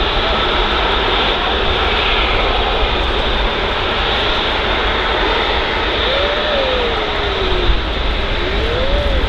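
Airbus A380 jet engines running at taxi power: a steady rushing hum with low rumble. Two short gliding whistles come near the end.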